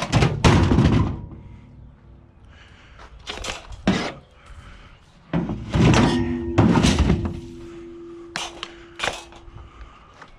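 A series of heavy thuds and bangs from scrap being handled and set down, about seven in all, the loudest in the first second and two more about six and seven seconds in. A faint ringing tone lingers after the middle bangs.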